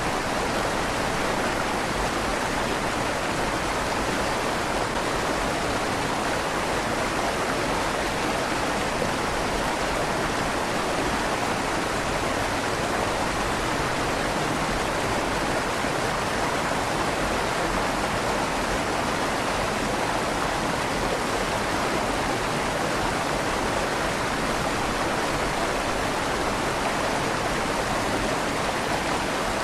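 River water flowing steadily through a stone bridge tunnel, a continuous even rush with a slight echo off the tunnel walls.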